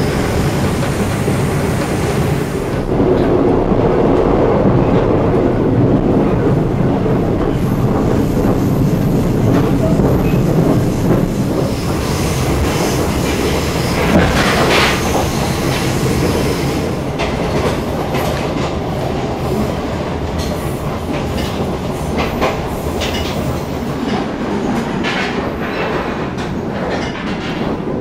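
Running noise heard inside a moving KTM intercity passenger coach: a steady rumble of the train, with the wheels clicking over rail joints now and then, more often in the second half.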